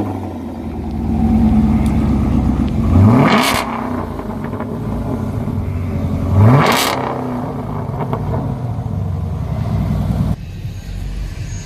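Car engine idling and blipped twice, the pitch rising quickly each time and ending in a loud rush of exhaust noise at the top of the rev. The engine sound drops away suddenly near the end.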